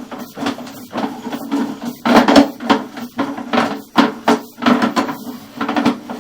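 Sewer inspection camera head and push cable knocking and scraping against the pipe as they are fed through a drain line, irregular clunks over a steady low hum.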